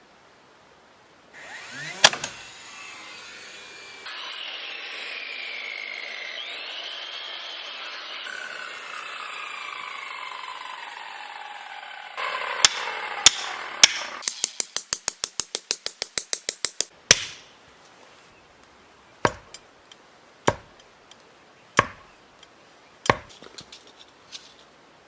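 Carpentry on wood: a stretch of steady power-tool noise with a slowly falling whine, then a fast, even run of about seven sharp strikes a second lasting some three seconds, then single hammer-like knocks a second or more apart.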